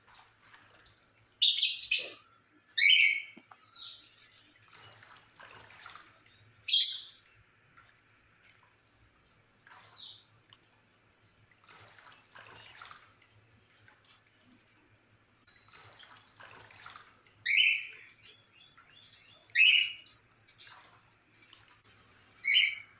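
Cockatiel giving short, loud chirping calls about six times, with softer splashing in between as it bathes in its drinking water.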